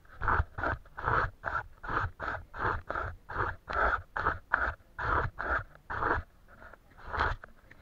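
Brush scrubbing back and forth on paper in quick, even strokes, about three a second, with a brief pause near the end.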